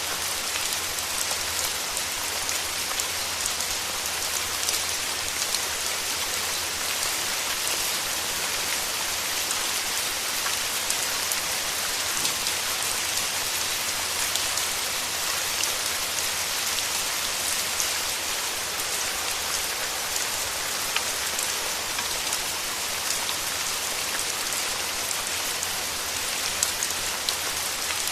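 Steady rain falling, with many single drops ticking close by throughout.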